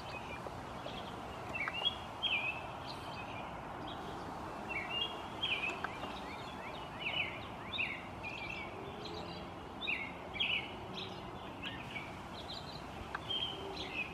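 Small birds chirping: quick, high, short notes in clusters every couple of seconds, over a steady background hiss.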